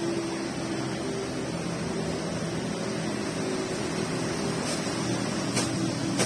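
Steady hiss of falling rain, with a low wavering hum underneath and a sharp tick or two near the end.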